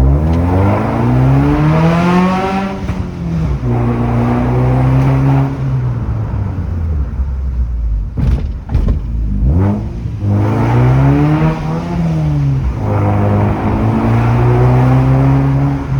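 2018 Suzuki Swift's engine through a loud aftermarket exhaust, revving up to a peak and dropping back, then holding a steady note. This happens twice, with a quieter lull and a few short sharp sounds in the middle.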